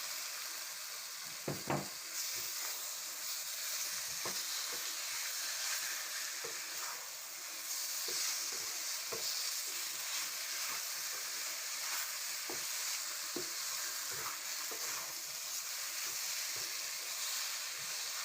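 Chicken sizzling in a pan of oily fried masala while a spoon stirs it, with occasional short knocks of the spoon against the pan.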